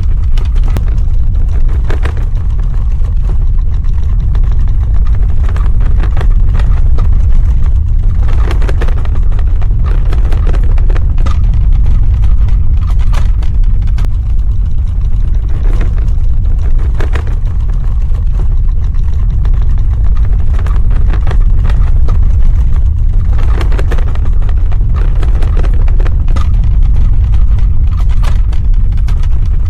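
Earthquake sound effect: a loud, continuous deep rumble, with scattered crackling and rattling above it that swells a few times.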